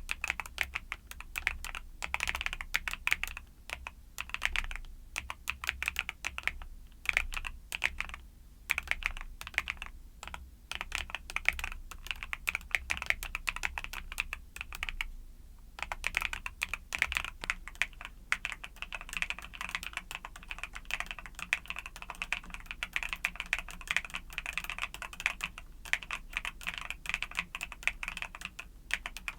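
Typing on a YUNZII mechanical keyboard with Cocoa Cream switches: quick runs of keystroke clicks broken by short pauses, the longest about halfway through.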